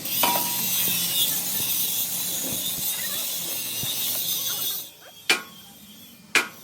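Steady loud hissing from steel-fabrication work that cuts off suddenly about five seconds in, followed by two sharp metallic knocks.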